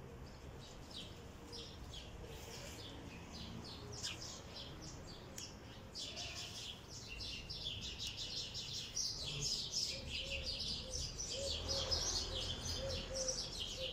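Small birds chirping, many short calls overlapping, growing busier and louder about halfway through.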